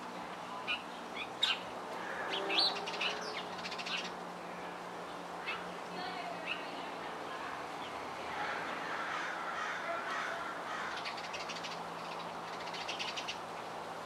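Birds calling: short sharp chirps and calls, most of them in the first seven seconds, with brief fast runs of ticks near the middle and again near the end.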